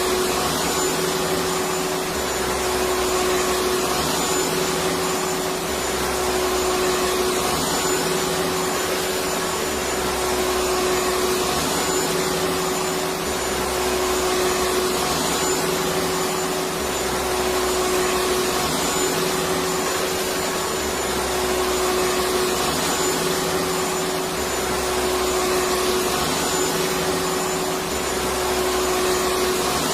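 Electric vacuum cleaner running steadily: a continuous rushing motor noise with a steady hum, swelling slightly every three to four seconds.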